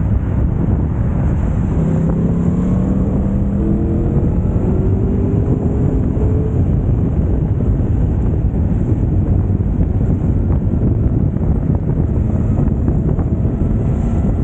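Yamaha YZF-R1's crossplane-crank inline-four, breathing through an Akrapovic exhaust, running under way, with heavy wind rumble on the microphone. The engine note climbs steadily from about two to six seconds in as the bike accelerates.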